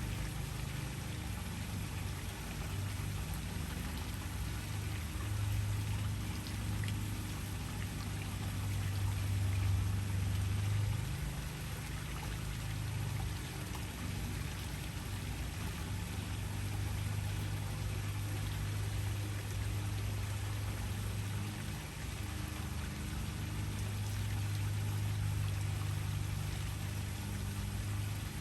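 Waterfall: steady rushing, splashing water with a deep low rumble that swells and eases every few seconds.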